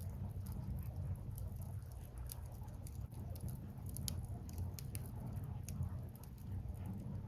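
Firewood burning in an open fire, crackling with scattered small pops and snaps over a steady low rumble.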